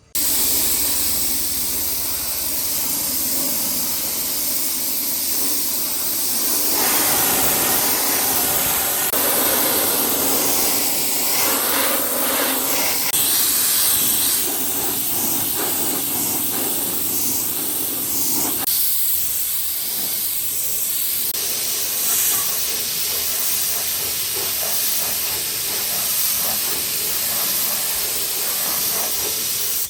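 Loud, steady hiss of a compressed-air tool at work, shifting in tone twice along the way.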